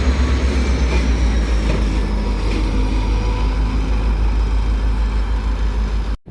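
Diesel locomotive of a freight train running close by with a loud, deep, steady engine rumble that pulses about four to five times a second. It cuts off abruptly near the end.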